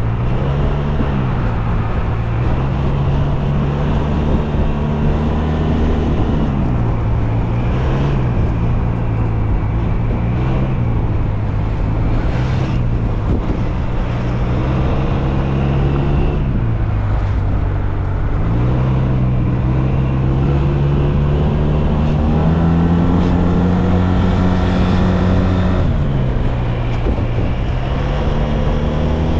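SYM Maxsym TL 508 maxi-scooter's parallel-twin engine running under way. Its pitch rises and falls several times as the throttle is opened and closed.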